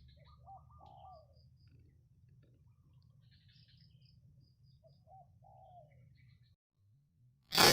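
Spotted dove cooing: two short phrases of low coos, with faint high chirps of small birds between them. Near the end a sudden loud hit starts music.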